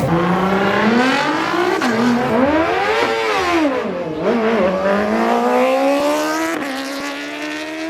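Car engine revving hard. Its pitch climbs for about three seconds, drops back and wavers, then rises steadily again as it accelerates.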